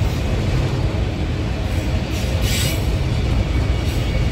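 A long freight train of autorack cars rolling past: a steady rumble of wheels on rail, with a brief high squeal about two and a half seconds in.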